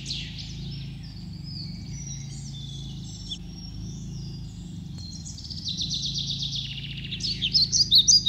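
Several small birds chirping and singing, with a fast-repeating trill that grows louder over the last few seconds, over a steady low hum.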